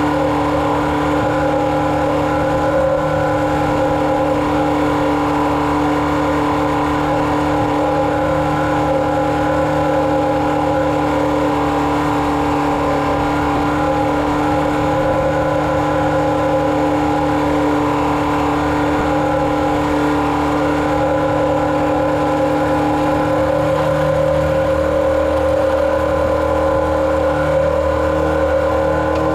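Farm vehicle engine running at a steady speed, working at spreading chicken litter, with a steady hum of several even tones over a low rumble.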